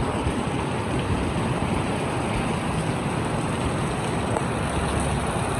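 Heavy rain pouring down, a steady even hiss with no letup.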